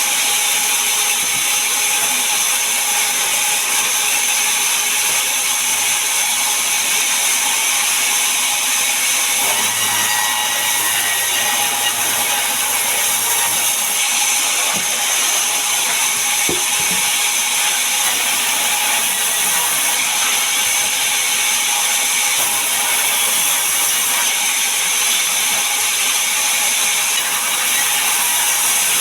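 Sawmill saw cutting through a large mahogany log: a loud, steady, high-pitched mechanical noise that keeps going without a break.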